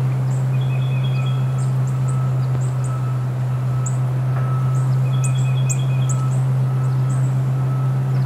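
Small birds chirping in short, high repeated notes over a steady low hum.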